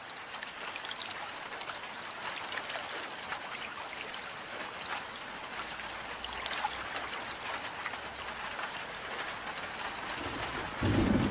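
Steady rain falling, with many separate drops pattering. Near the end a louder, low rumble comes in.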